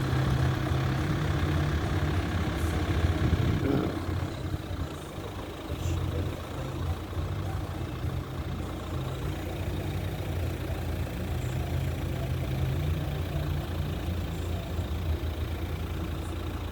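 A vehicle engine running steadily at low revs, with floodwater rushing loudly over the track during the first four seconds or so before it drops back.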